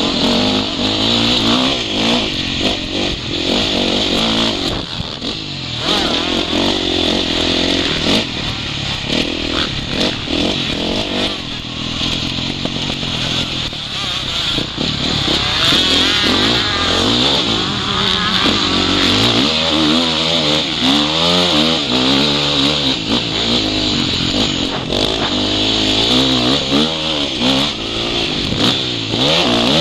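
Motocross bike engine being ridden hard, its pitch rising and falling over and over as the throttle is opened and closed, heard from the microphone in the rider's goggles.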